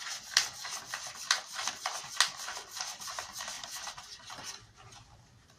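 Irregular scratching and rustling: a quick, uneven run of soft clicks and rasps that fades in the last second or so.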